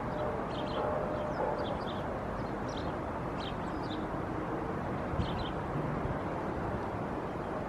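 Short, high chirps of small birds scattered through the first few seconds, over a steady low outdoor rumble like distant traffic.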